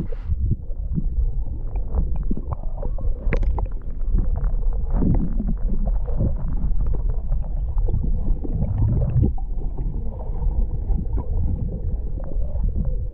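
Kayak on the water: splashing and gurgling water with many small knocks against the hull, under a heavy low rumble.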